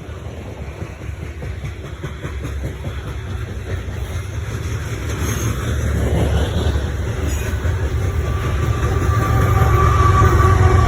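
CSX coal freight train rolling past, its low rumble growing steadily louder. Steady tones come in over the rumble in the last few seconds.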